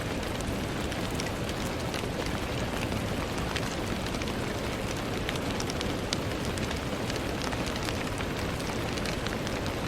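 Steady rain on a window: a constant hiss with many small, irregular drop ticks.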